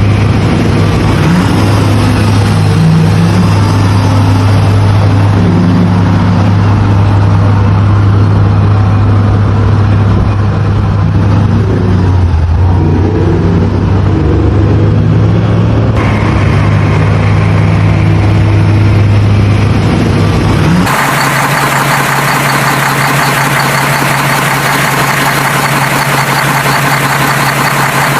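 Vehicle engine sound running steadily at a low idle hum. About 21 seconds in it switches abruptly to a different, thinner and buzzier engine tone.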